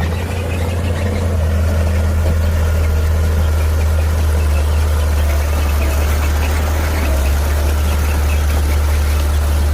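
Heavy diesel earthmoving machine engine running steadily with a deep low rumble.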